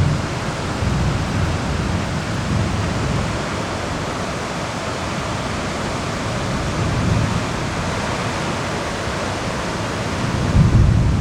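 Steady hiss of heavy thunderstorm rain, with low rumbles of thunder swelling at the start and again near the end.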